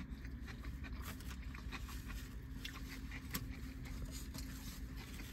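A person chewing a mouthful of burrito: faint wet mouth clicks and smacks scattered irregularly, over a steady low hum inside a car.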